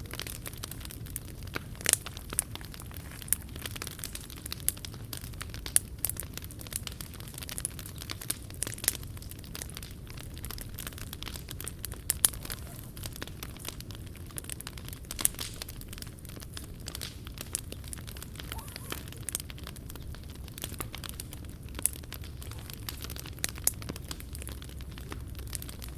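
Wood fire crackling, with frequent sharp pops and snaps at irregular intervals over a low steady rumble.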